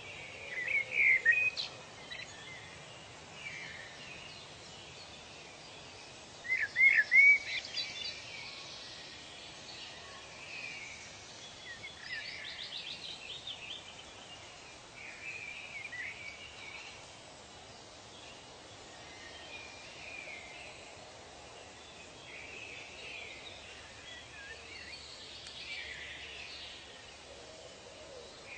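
Several birds calling over a steady background hiss. Loud runs of three or four short notes come about a second in and again around seven seconds, a fast trill comes around twelve seconds, and softer scattered calls fill the rest.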